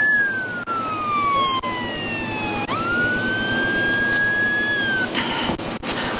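Police car siren wailing: one slow falling sweep, then a sudden jump back up to a held high tone that cuts off about a second before the end.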